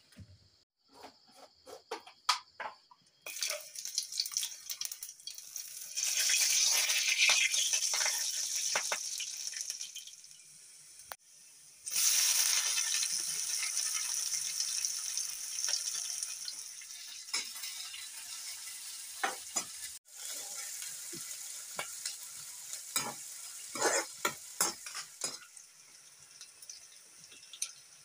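Sliced onions, then tomatoes, sizzling as they fry in hot oil in a kadai. A spatula scrapes and taps against the pan as they are stirred. A loud burst of sizzling starts suddenly about twelve seconds in, then settles to a steadier fry.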